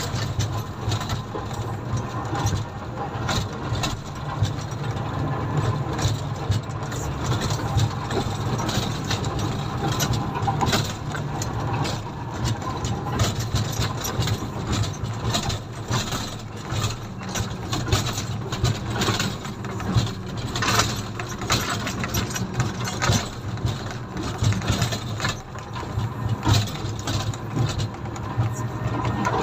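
Komatsu motor grader's diesel engine running steadily under work, with frequent irregular knocks and rattles.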